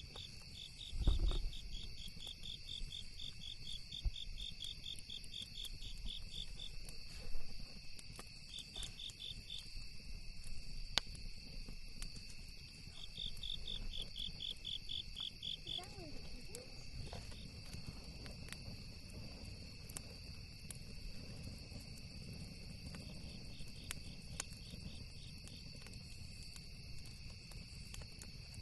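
Crickets and other insects trilling steadily, with bursts of rapid even chirping that come and go, over a crackling campfire with scattered sharp pops. A low thump about a second in.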